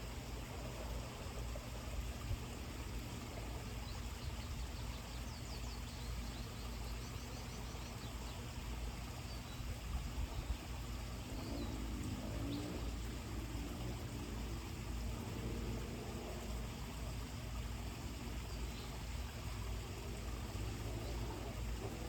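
Outdoor ambience: a steady low rumble with faint, scattered bird chirps and a short high trill about five seconds in.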